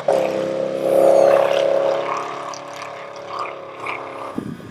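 Off-road vehicle's engine running at a steady pitch, loudest about a second in, then gradually fading away.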